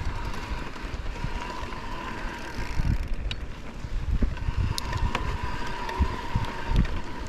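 Mountain bike rolling over a dirt trail, with wind buffeting the chest-mounted GoPro's microphone as an uneven rumble, and a few sharp clicks and rattles from the bike.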